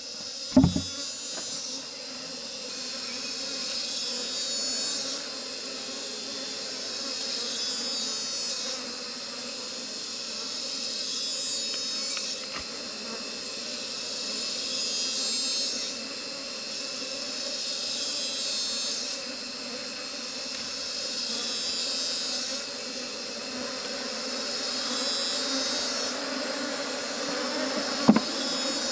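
Honeybees buzzing in a steady hum, under a chorus of forest insects whose high calls swell and fade about every three and a half seconds. A short knock comes about a second in and another near the end.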